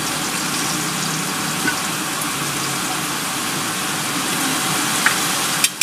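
Heavy rain pouring down in a rainstorm, a steady dense hiss.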